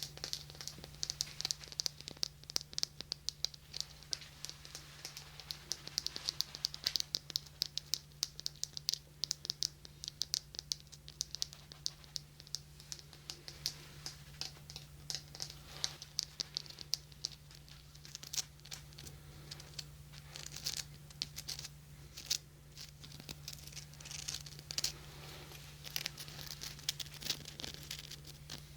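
Fast, irregular scratching, crinkling and tapping close to a 3Dio binaural microphone: fingers working over and around the microphone's ears as an ASMR trigger. A faint steady electrical hum lies under it.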